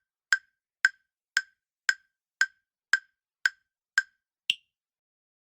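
Quiz countdown-timer sound effect: sharp wood-block-like ticks at about two a second, nine in all, the last one higher-pitched, marking the answer time running out.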